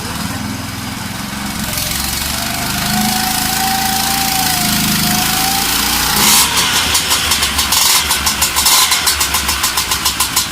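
External engine starter spinning a Kawasaki KDX250's two-stroke single-cylinder engine over with a steady whine; about six seconds in the engine catches and runs with a loud, rapid, uneven beat.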